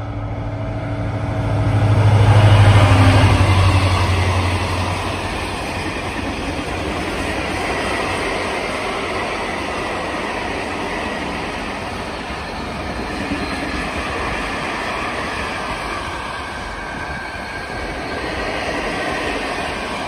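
Class 335 diesel-electric freight locomotive (Vossloh Euro 4000) passing, its engine drone loudest about two to three seconds in and gone by about five seconds. After it comes the steady rolling and rattling of a long string of empty container flat wagons.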